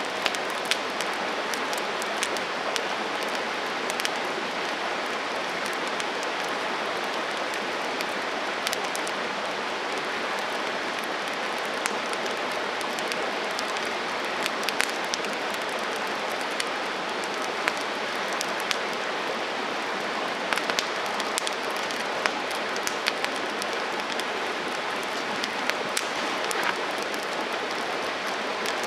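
Wood campfire burning: a steady hiss with frequent sharp, irregular crackles and pops from the burning wood.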